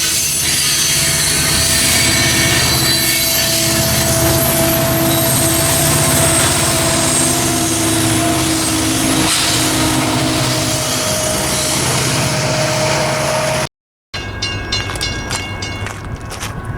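Freight train rolling past close by: loud, steady wheel-on-rail noise with several held squealing tones from the wheels. About fourteen seconds in it cuts off abruptly, and a quieter stretch of train noise with rapid clicking follows.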